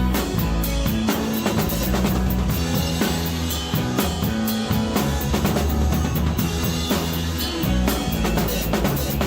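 Live rock band playing, heard from the drum kit: steady kick drum, snare and cymbal strokes over bass and guitar.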